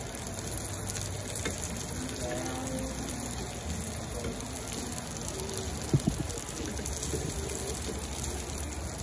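Vegetable fritters frying in shallow oil in a nonstick pan: steady sizzling as fresh batter is spooned in and spread with a spatula. One sharp knock about six seconds in.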